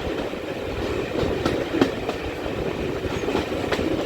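Heritage train running along the line: a steady rumble of the carriages with wheels knocking sharply over rail joints a few times.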